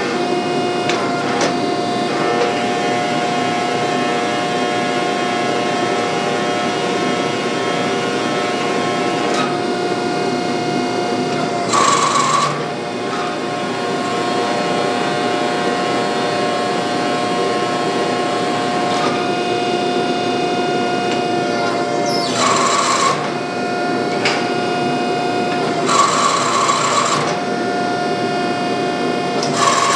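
A workshop power tool running with a steady motor hum, broken by several louder, harsh bursts of about a second each.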